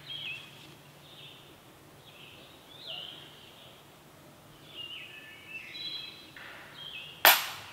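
Songbirds chirping and calling in short repeated phrases. Near the end comes a single loud, sharp crack with a brief ring after it.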